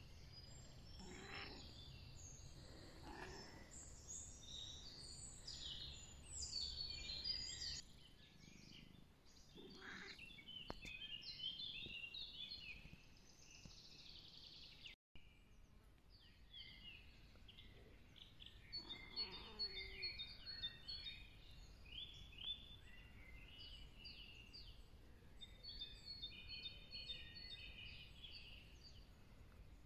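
Faint wild songbirds chirping and singing, many short notes overlapping, with a brief gap about halfway through.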